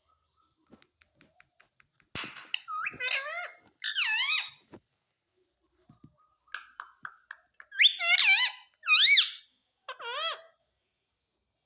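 Pet parrot calling: shrill, wavy squawks in two groups, with a few faint ticks before the first group.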